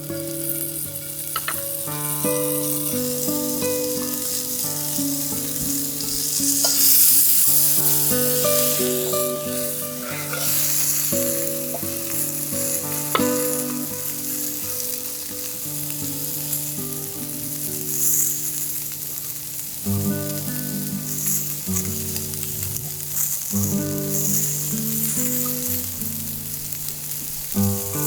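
Steak sizzling and frying in a frying pan over a wood fire, with the sizzle swelling louder a few times. Background music plays underneath.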